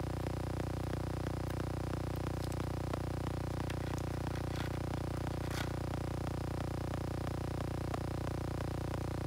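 A steady low electrical hum with faint, regular small ticks, about three a second, and two short scraping rustles about halfway through.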